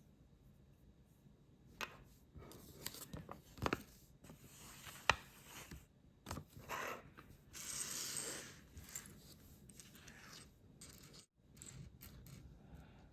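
Small plastic building blocks being handled: a few sharp clicks as pieces are pressed together, with bursts of rattling and rustling as loose pieces are rummaged through.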